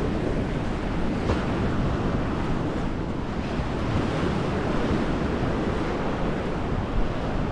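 Sea waves washing onto the beach, with wind rushing over the microphone in a steady rumble.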